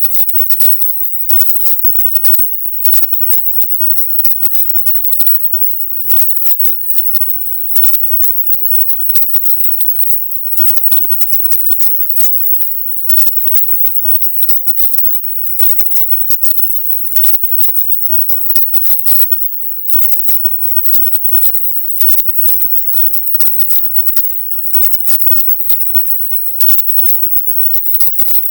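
A very high-pitched, choppy hiss that stutters on and off many times a second, its energy piled up near the top of the hearing range: a 'silent subliminal' recording, its hidden content pushed up high so that it is barely heard as words.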